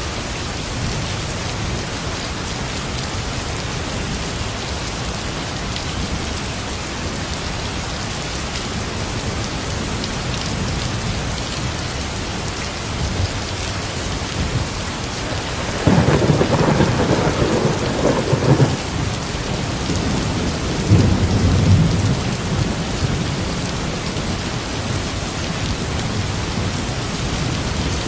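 Steady heavy rain falling. About halfway through, a thunderclap breaks in and rumbles for a few seconds, followed shortly by a second, lower roll of thunder.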